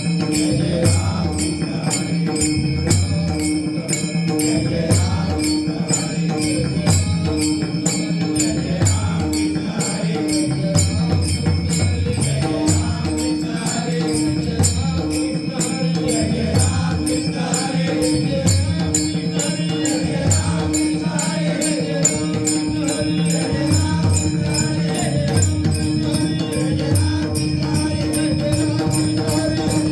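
Devotional bhajan music: pakhawaj drum strokes with small hand cymbals keeping a steady, even beat over a continuously held drone.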